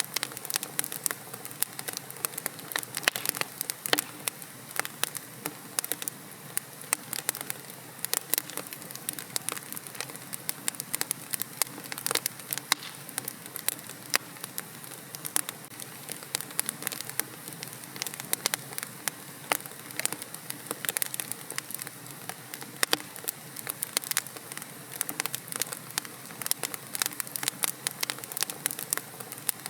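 Wood fire burning in a fireplace, crackling and popping irregularly and continuously over a soft steady hiss.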